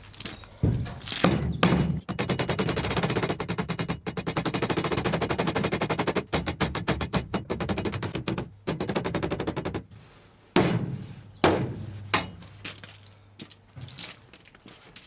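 Metal being hammered on the dented aluminium body panel of a Series Land Rover rear tub to knock the stoved-in corner back out. A few single heavy blows come first, then long, rapid, even runs of strikes like a machine gun, broken by short pauses, and a couple more single blows near the end.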